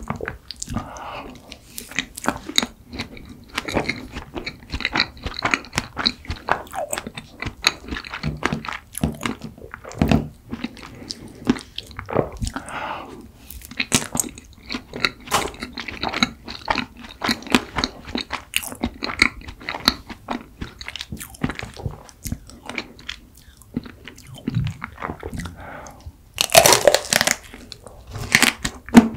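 Close-miked chewing of ice cream cake, with many small sharp crunches from the chocolate chips and cookie pieces. Near the end comes a louder, longer crunching bite into a chocolate-crumb-coated ice cream bar.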